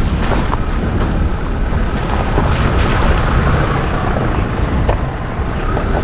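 Wind buffeting the microphone: a loud, steady, rumbling rush with no clear pitched sound in it.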